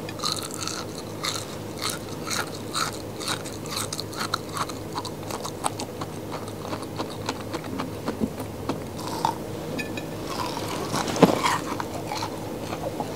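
Close-up biting and chewing of a piece of amber candy: a run of small sharp crackles as its thin crisp sugar crust breaks, then softer chewing of the springy jelly inside. A brief louder sound comes near the end.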